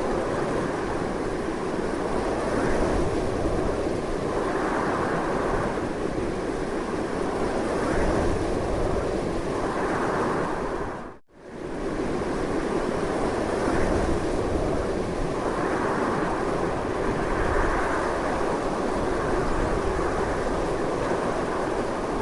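Strong continuous wind blowing in slow gusts that swell and ease every few seconds. About halfway through it fades out sharply for a moment and comes straight back.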